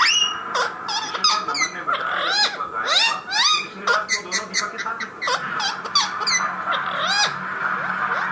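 Parrot calling: a quick run of high chirps, squeaks and whistles that sweep up and down in pitch, some overlapping.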